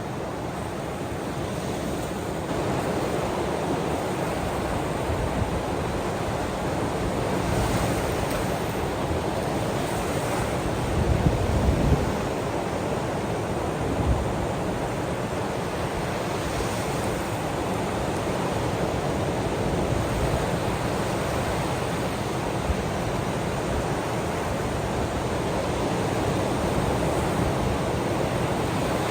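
Sea waves washing steadily onto the shore, with wind buffeting the microphone; a stronger low gust of rumble comes about eleven seconds in.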